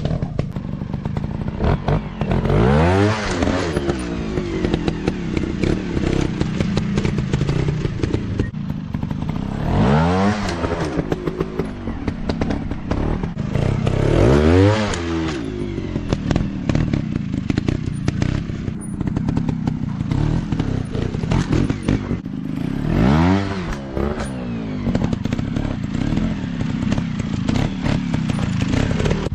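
Dirt bike engines running off-road, revved up and back down four times with steady running in between, with clattering and scraping from the ride.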